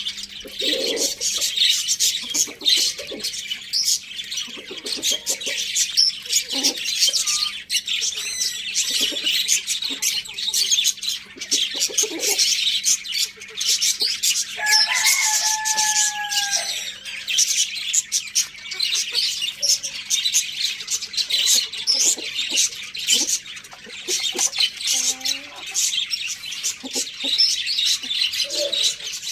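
Many small birds chirping densely and continuously, with short low clucking calls from chickens scattered through. A rooster crows once about halfway through, one long held crow.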